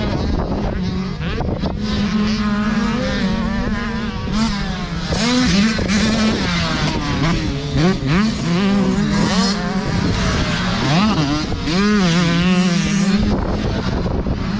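Several youth motocross dirt bikes' two-stroke engines revving up and down at once as they race around the track, their pitches rising and falling and overlapping.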